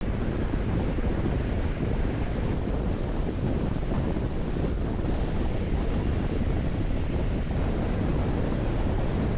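Steady road noise of a car driving at expressway speed on rain-wet asphalt: a low rumble with tyre hiss, and wind on the microphone.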